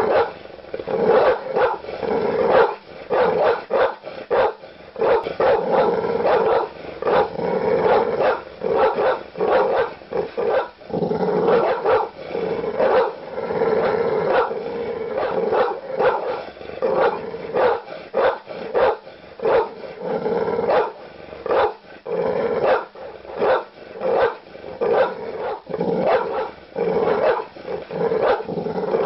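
Large dog barking aggressively in quick, unbroken runs of deep barks, about two or three a second.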